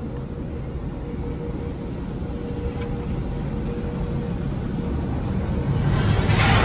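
Automatic car wash heard from inside the car: a steady low rumble, then a loud rushing hiss that swells in near the end as the wash gets going.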